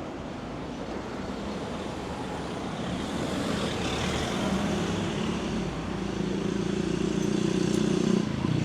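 A motor vehicle's engine approaching on the road, growing steadily louder over the second half.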